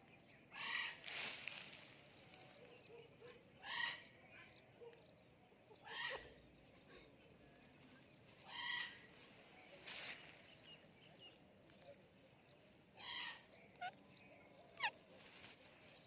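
Short, harsh bird calls repeated every one to three seconds, each lasting about half a second, with one quick falling note near the end.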